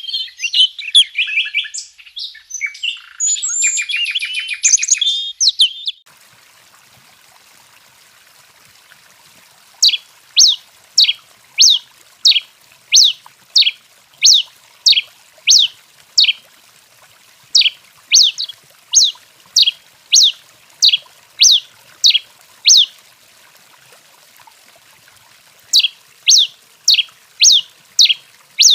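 A songbird, the bird sold as tico-tico-rei, chirping densely for the first six seconds, after which that sound cuts off abruptly. About ten seconds in it starts a long series of sharp, downward-sweeping call notes, about one and a half a second, breaks off briefly, then resumes near the end.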